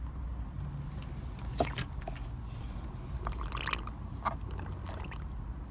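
Small wet clicks and squelches of a rainbow lorikeet eating banana, a few at a time, over a steady low hum.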